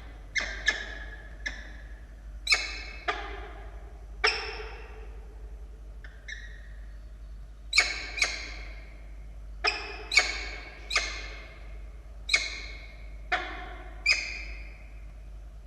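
Peregrine falcons calling at the nest: about fifteen short, harsh calls, each starting sharply and falling in pitch, in irregular runs of one or two a second, with a brief pause about six seconds in. These are the calls of a falcon pair bonding during a prey delivery.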